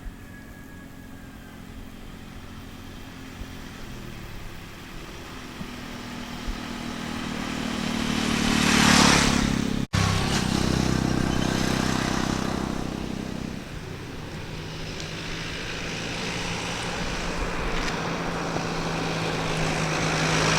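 Motor vehicle engines running, with vehicles approaching and passing close by: the noise builds to a peak about nine seconds in, breaks off suddenly, then builds again near the end.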